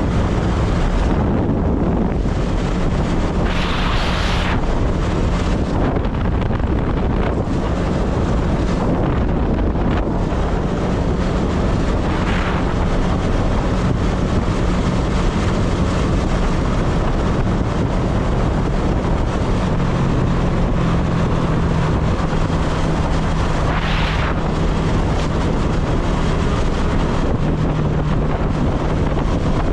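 Motorcycle on the move: heavy wind noise on the microphone over the engine's steady low drone. The engine note steps down about two-thirds of the way through, and three brief rushes of noise swell up, about 4, 12 and 24 seconds in.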